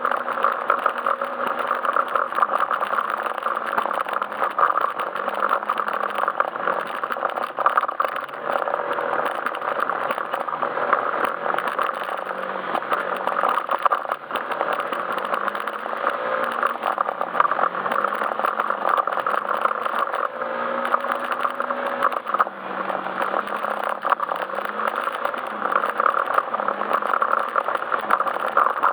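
Yamaha Majesty S scooter's single-cylinder engine running on the move, its note rising and falling over and over with the throttle, under steady rattling road and wind noise.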